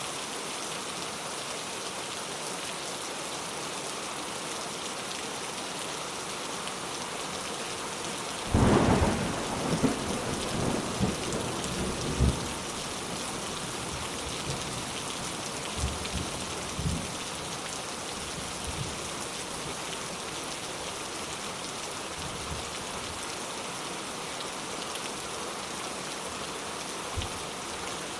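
Steady rain, with a clap of thunder about a third of the way in that crackles and then rolls away over a few seconds, followed by fainter rumbles of thunder.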